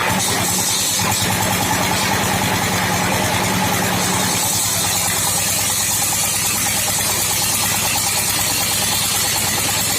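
Engine-driven wood sawmill machine running with a steady drone and rapid even pulsing. A higher hiss grows stronger about four seconds in.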